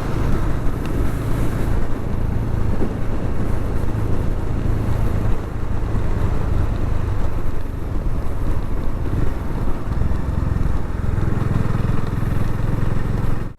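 Bajaj Dominar motorcycle engine running steadily at riding speed, mixed with wind rush, heard from the rider's camera. It cuts off suddenly at the end.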